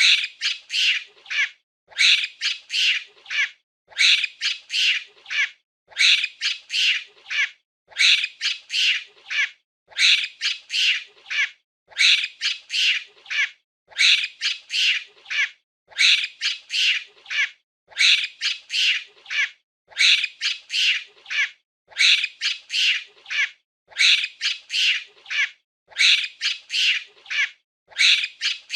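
Monkey chattering: a burst of several quick, high-pitched squeaky calls about every two seconds, repeating evenly like a loop.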